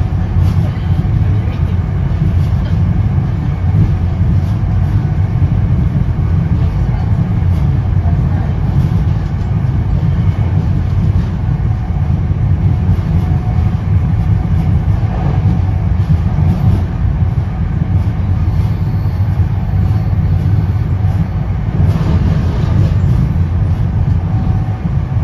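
Steady low rumble of an NJ Transit Comet II/IV passenger coach running at speed, wheels on rail and car body noise heard from inside the coach.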